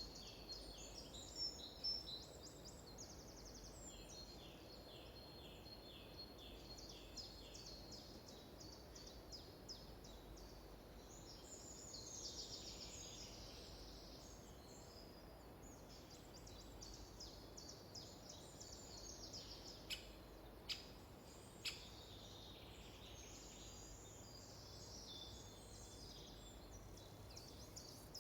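Faint songbirds singing, several overlapping birds with fast runs of repeated chirps and trills over a steady outdoor hiss. Three sharp clicks come close together about two-thirds of the way through.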